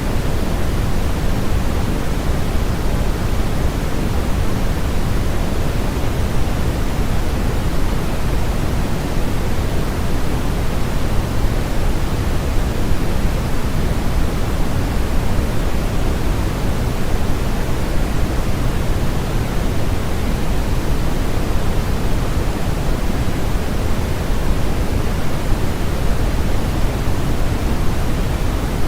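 Synthetic sleep-aid noise playing steadily: an even, unbroken hiss, heavier in the lows than in the highs, with no change in level.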